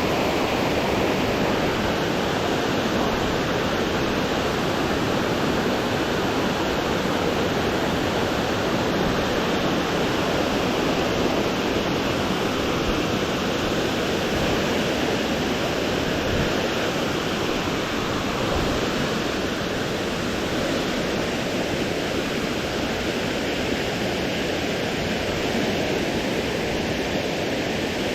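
Waterfall rushing: the steady roar of falling water at Anna Ruby Falls, close to the viewing platform. It stays even throughout.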